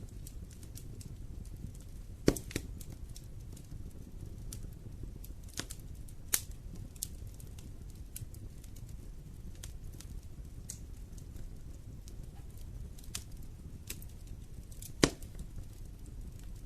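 Wood fire in a fireplace crackling over a low steady rumble. Scattered sharp pops come throughout, with the loudest snaps about two seconds in, at six seconds and near the end.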